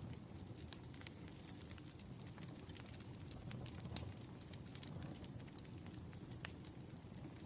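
Wood fire crackling: irregular sharp pops and snaps over a low, steady rumble of burning logs, with a louder pop about six and a half seconds in.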